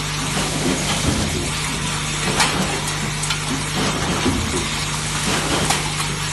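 Semi-automatic spot welding machine running: a steady low hum under a constant hiss, with a few sharp clicks, one about two and a half seconds in and another near the end.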